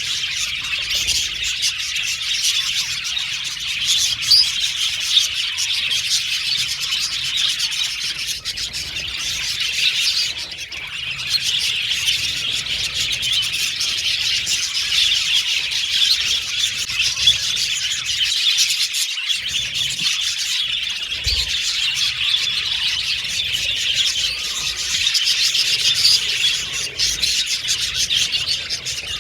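A colony of budgerigars chattering and chirping together, many birds at once in a dense, continuous warble, with a brief lull about a third of the way in.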